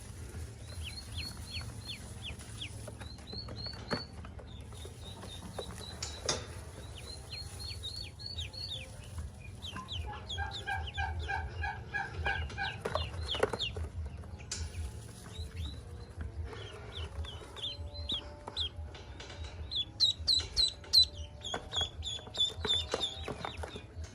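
Ducklings peeping: many short, high, falling peeps in quick runs, over a steady low hum.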